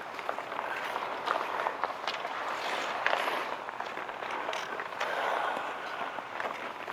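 Outdoor ice hockey game: a steady scraping hiss of skates on ice, broken by scattered sharp clicks and knocks of sticks and puck.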